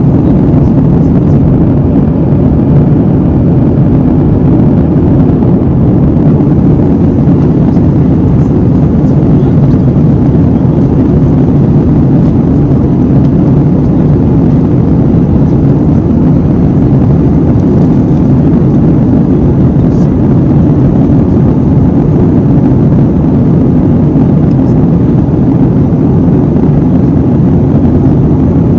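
Steady low rumble and rush of an airliner's engines and airflow, heard inside the passenger cabin.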